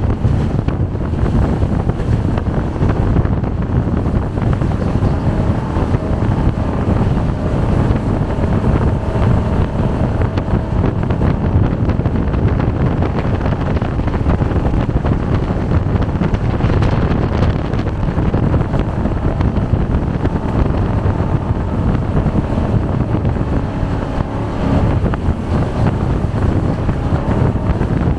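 Jet boat running at speed: steady engine and water-jet noise with a faint engine note that wavers in pitch, under heavy wind buffeting the microphone.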